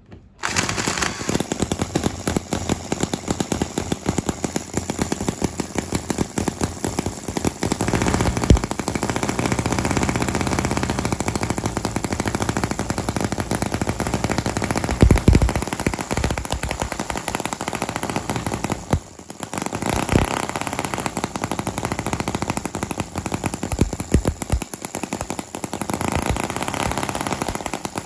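Small model gasoline engine running fast, its exhaust firing in a rapid, rattling stream of sharp pops. It starts suddenly near the beginning and drops out briefly about nineteen seconds in before running on.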